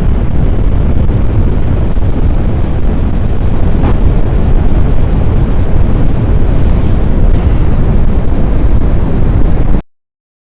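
Strong wind buffeting the microphone: a loud, steady, deep rumbling noise that cuts off suddenly to silence near the end.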